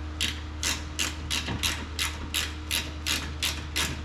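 Hand socket ratchet clicking in short, even strokes, about three a second, as a fastener is turned, which the mechanic reckons is cross-threading. A steady low shop hum runs underneath.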